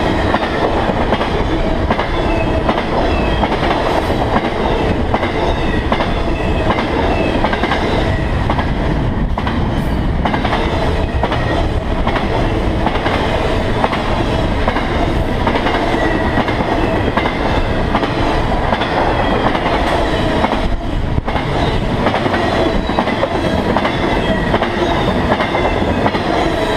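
Freight train passing close by: intermodal cars loaded with semi-trailers roll past with a loud, steady rumble of steel wheels on the rails.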